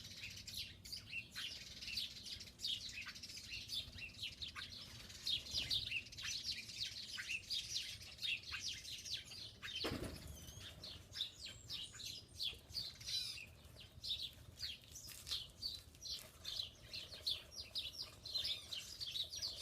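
Many small songbirds chirping and twittering, a steady stream of short, high, quick calls overlapping one another. About ten seconds in there is a brief whoosh that sweeps downward.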